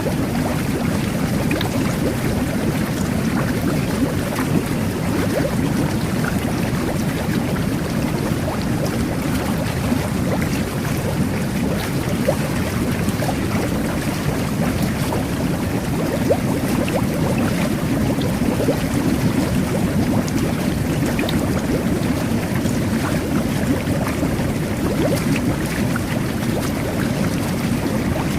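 Jet bath running steadily: a low churning rush of air-and-water jets bubbling through the bathwater, with constant small pops and crackles of bursting bubbles.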